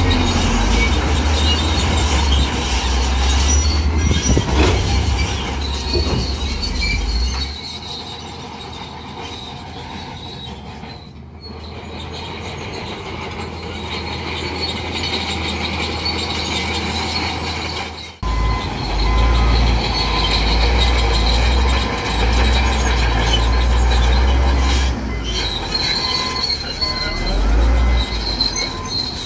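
Crawler bulldozer working: the diesel engine runs heavily under load with a deep rumble while the steel tracks squeal and clank. The engine eases off about a quarter of the way through, then picks up load again suddenly a little past halfway.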